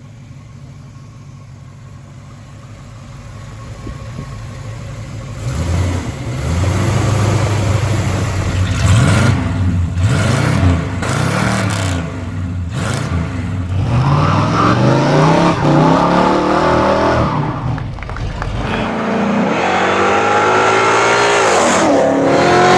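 Classic Ford V8 engine idling, then revved repeatedly, its pitch rising and falling and growing louder from about five seconds in, and climbing again near the end.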